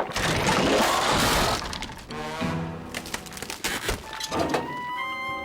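Cartoon soundtrack: a loud crashing, breaking sound effect in the first two seconds, followed by short musical stings and a few knocks, with notes stepping upward near the end.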